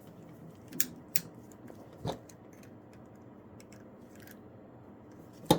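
Hard plastic parts of a Dino Megazord toy clicking and knocking as they are handled: a few separate small clicks in the first couple of seconds, then a louder click near the end.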